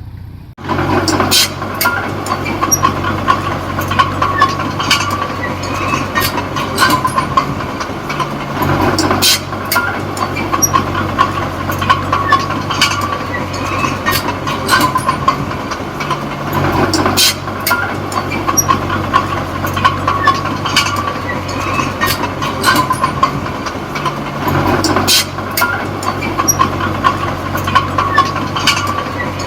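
Komatsu D20P small crawler bulldozer: diesel engine running steadily with its steel tracks clanking, the engine note shifting about every eight seconds as the load changes.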